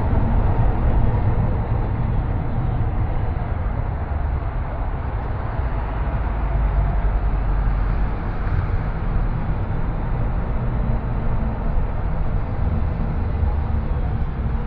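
Steady rumble of a car being driven on city streets: tyre and engine noise, strongest in the low end, with no sudden events.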